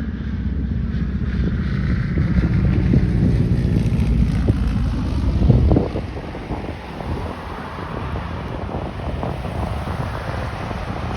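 The Boeing B-17 Flying Fortress's four radial piston engines running loud and rumbling. The sound grows until about six seconds in, then drops off sharply to a lower rumble, with wind buffeting the microphone.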